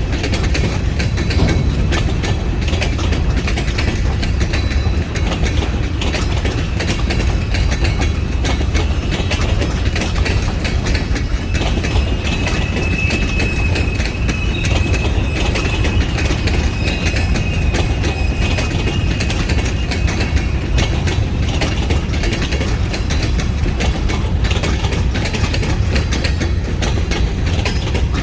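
Kiamichi Railroad freight train rolling past, its cars' wheels clattering and clicking over the rail joints in a steady loud run. A thin high squeal rises out of it from about twelve to twenty seconds in.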